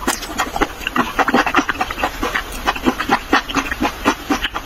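A person chewing raw fish slices with the mouth closed, close to the microphone: quick, irregular mouth clicks and smacks, several a second.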